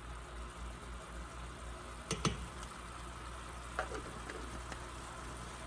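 Melted butter sauce with garlic, lemon juice, mustard and spices sizzling steadily in a skillet. A utensil clinks sharply against the pan twice a little over two seconds in, and more faintly near four seconds.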